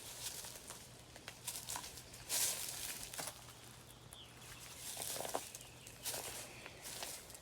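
Quiet outdoor ambience with scattered short rustles and light taps, the loudest about two and a half seconds in, over a faint steady low hum.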